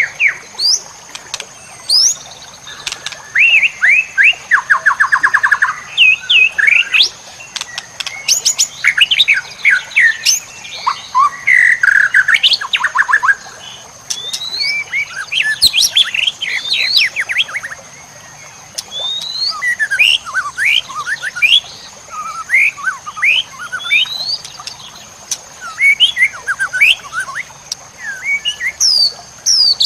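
White-rumped shama (murai batu) singing a varied, continuous song of loud whistled sweeps, rapid repeated notes and trills, 'full isian' style with phrases imitated from other birds. A steady high thin tone runs underneath.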